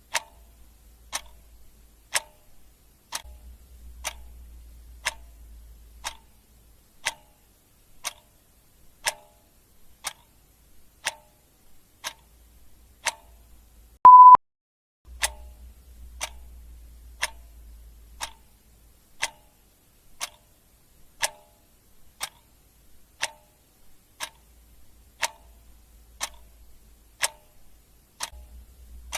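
Clock ticking steadily, one tick a second. About halfway through, a single short, loud, high beep sounds once.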